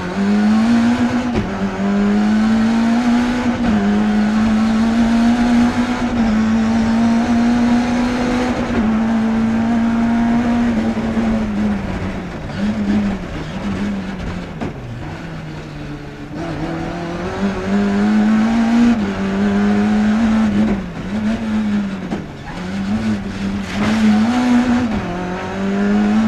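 BMW E30 318 kitcar's engine heard from inside the cabin at full rally pace, held at high revs for the first ten seconds or so. From about twelve seconds in, the revs drop and climb again over and over through lifts and gear changes.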